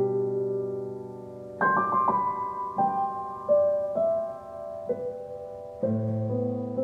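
Slow solo piano background music: held chords that fade away, with a simple melody of single notes picked out between them.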